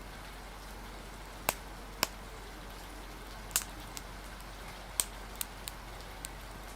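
Wood fire crackling, with about eight sharp, irregular pops over a steady hiss of rain.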